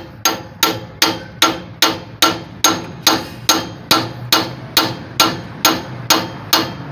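Hammer striking a socket to drive the lower timing gear onto the crankshaft of a 350 engine. The blows are steady, about two and a half a second, each with a short metallic ring.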